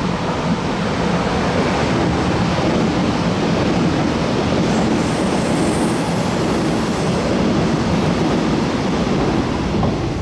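Taiwan Railways EMU700 electric multiple unit passing close by, a steady rumble of wheels on rail. A thin high-pitched whine rises over it for a couple of seconds around the middle as the cars go by.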